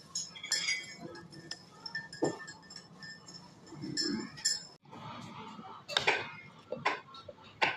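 Dishes and utensils clinking in scattered short knocks, the loudest a few near the end, over a faint steady high tone.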